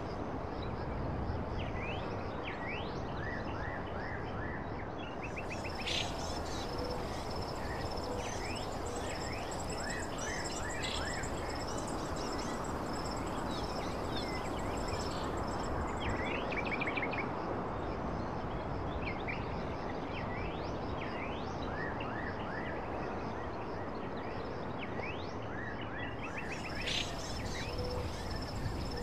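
Nature ambience: a steady rushing background noise with many short bird chirps scattered through it. A high, steady trill comes in about five seconds in, drops out midway and returns near the end.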